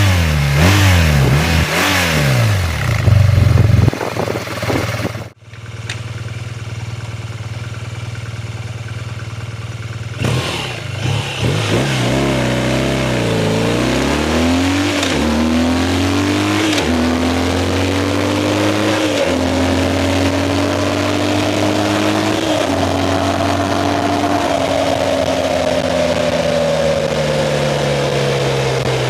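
BMW R 12 G/S motorcycle's 1170 cc boxer twin, first revved in short blips, then idling steadily. It then accelerates hard up through the gears, with four quick upshifts, before the revs slowly fall away as the throttle is eased.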